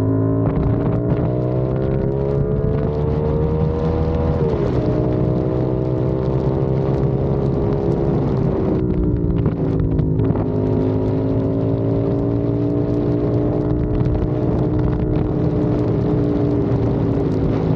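CFMOTO 450SR's parallel-twin engine under way: its pitch climbs under acceleration, drops at an upshift about four and a half seconds in, then eases down again as the throttle is rolled off around eight to ten seconds and runs steadily. Wind noise on the microphone runs beneath it.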